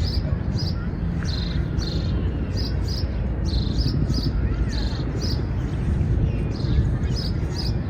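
Small birds chirping over and over, short high notes about twice a second, above a steady low rumble of city-park ambience.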